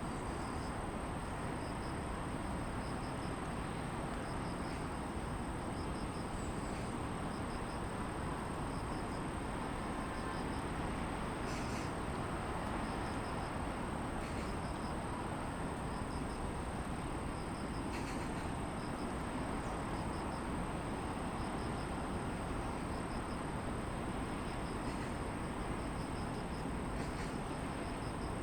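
Steady distant city traffic noise with insects calling over it: one high, unbroken trill and a quieter chirp that pulses evenly. A few brief, high bird chirps come now and then.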